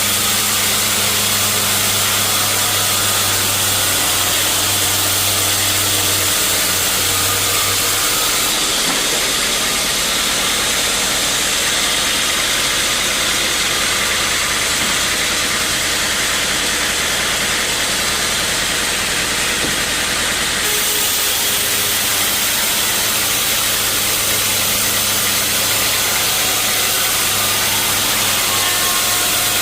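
Sawmill machinery running steadily: a loud, even hiss over a low hum. The hum drops away for about twelve seconds in the middle and then returns.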